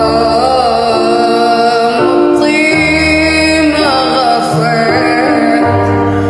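A song: a voice singing a wavering, ornamented melody over sustained instrumental accompaniment, with held bass notes that change every second or so.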